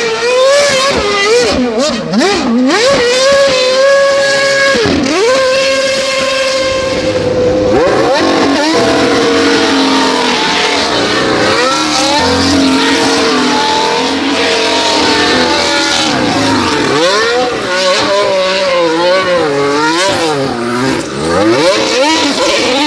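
High-revving performance car engine held at high revs. Its pitch dips sharply and climbs back several times, then wavers quickly up and down as the throttle is worked on and off.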